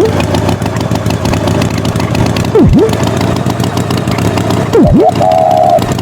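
Cartoon tractor engine sound running steadily, with a swooping effect that dives low and climbs straight back up three times. A short steady tone comes in near the end.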